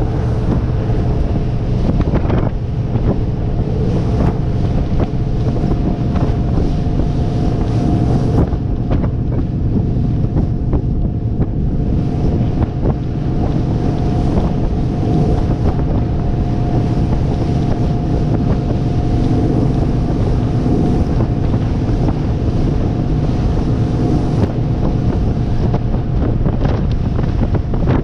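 Christina 25 motorboat under way, its engine running at a steady cruise with a constant drone, and wind buffeting the microphone over the rush of water along the hull.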